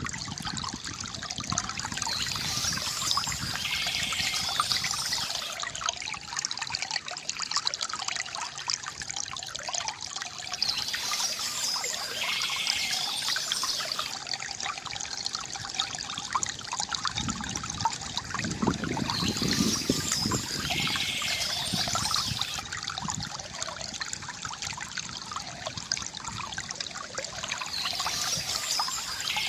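Water trickling and gurgling steadily from a bamboo fountain, with a brighter splashing pattern that comes back about every nine seconds.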